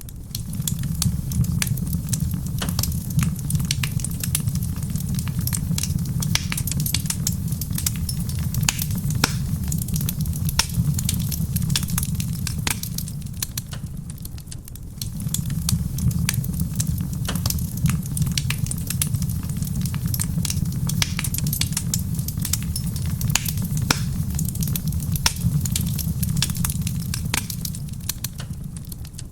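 Wood fire crackling in a stone fireplace, with many sharp pops and snaps over a steady low rumble, mixed with soft rain pattering on a roof. The low rumble drops away briefly about halfway through, then returns.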